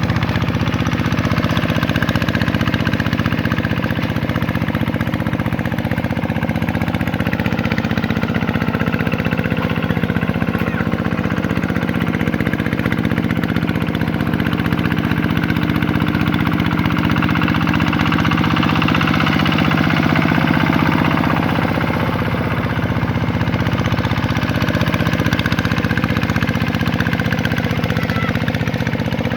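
Vikyno RV125-2 hand tractor's single-cylinder diesel engine running steadily as it works the paddy field, swelling a little about twenty seconds in.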